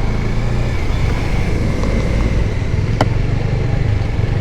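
Bajaj Dominar 400's single-cylinder engine running steadily as the motorcycle rides, with road and wind noise; a sharp click about three seconds in.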